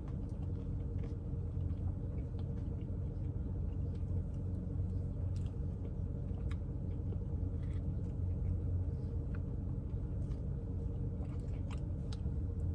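A person chewing a mouthful of Blizzard soft-serve with crunchy Reese's cup and graham pie-crust pieces, heard as faint chewing and scattered small clicks. Under it runs a steady low hum.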